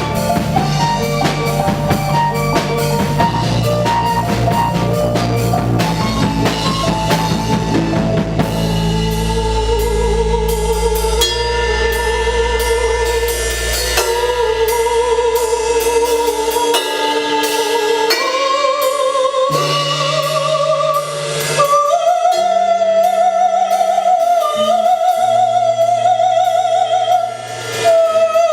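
Live band playing an instrumental passage: drum kit, bass and guitar at first. About a third of the way in, a held lead melody with wide vibrato enters and steps higher, while the low bass and drums drop away past the middle.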